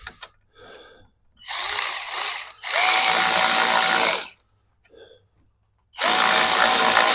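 Electric power drill or driver run in three short bursts, the later two with a steady motor whine that spins up at the start of each.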